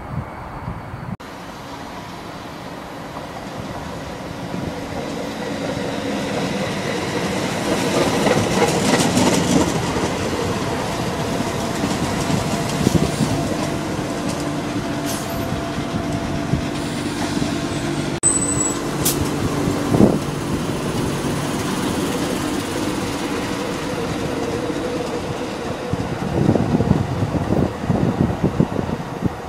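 Northern Rail diesel multiple unit running along the line beside the platform. Engine and wheel noise build over several seconds to a steady drone, and uneven clattering comes near the end.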